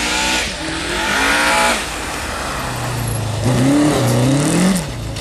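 Rally car's engine revving hard as it drives along a snow stage, its pitch climbing and dropping back several times; the revs fall away near the end.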